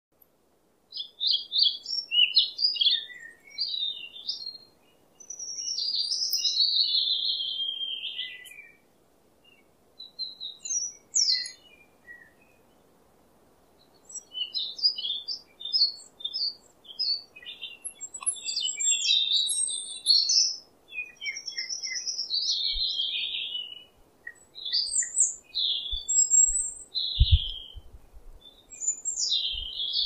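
Songbirds singing and chirping in quick, varied phrases with short pauses between them. A few faint low thumps come near the end.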